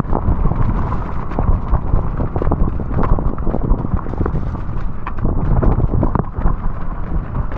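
Mountain bike clattering and knocking over roots and rocks on a wet, muddy downhill trail, over a constant rumble of tyres and wind.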